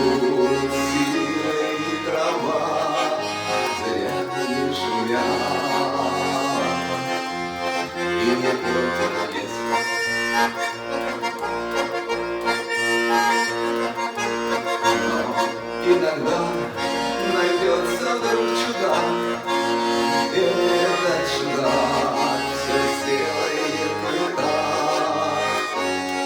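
An accordion playing an instrumental break of a song: held chords over a line of changing bass notes, without singing.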